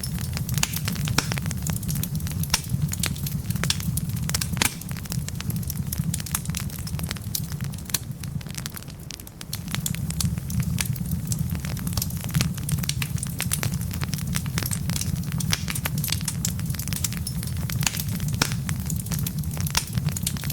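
Wood logs burning, crackling with frequent sharp pops and snaps over a steady low rumble of the flames. The rumble drops away briefly about halfway through, then comes back.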